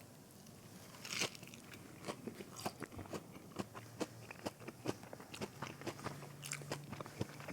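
Close-up chewing of breaded fried mozzarella sticks: a crisp bite about a second in, then many small crunching clicks of the breading being chewed.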